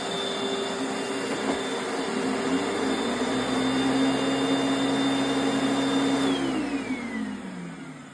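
Late-1980s Panasonic Jet Flow upright vacuum cleaner running steadily with a motor hum and whine, then switched off about six seconds in, the motor winding down with a falling pitch over about two seconds.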